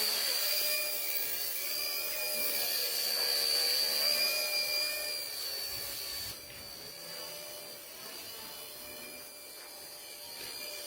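Small electric toy motor of a homemade juice-carton helicopter running with a steady high whine that wavers slightly in pitch. It gets quieter about six seconds in.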